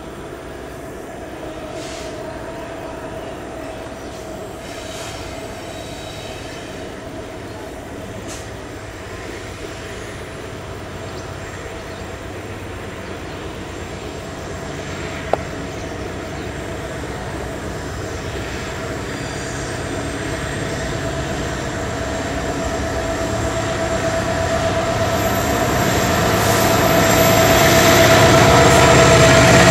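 Double-headed CC 205 diesel-electric locomotives hauling a long coal train approach and pass close, their engine rumble and wheel noise growing steadily louder, with a steady wheel squeal from the curved track running throughout.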